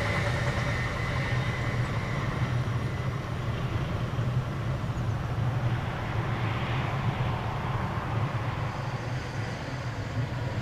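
A passing train receding into the distance, its wheel noise fading in the first moments and leaving a steady low rumble.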